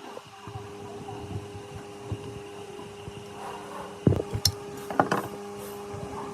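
A steady hum with a few sharp knocks and clatters, like tools or parts being handled, bunched about four to five seconds in.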